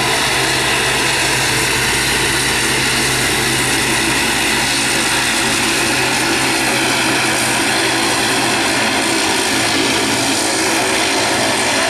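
Twin turboprop engines of an ATR 72 running loud and steady, a drone made up of several steady tones. The deepest part of the sound drops away about nine seconds in.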